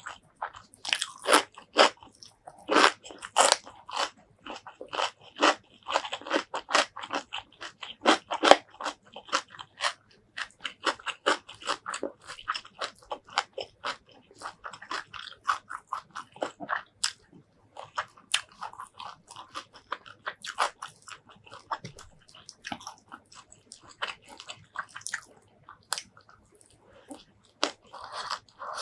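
Close-miked eating: loud, crisp crunching bites and chewing of a raw green vegetable for the first several seconds, then softer chewing of mouthfuls of rice and shrimp curry eaten by hand.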